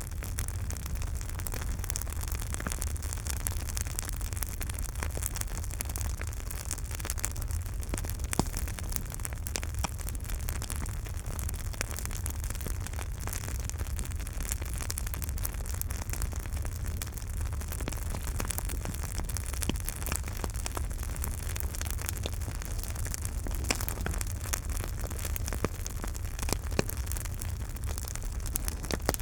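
Campfire burning: a steady low rumble and hiss with frequent small crackles and pops of burning wood, one sharper pop about eight seconds in.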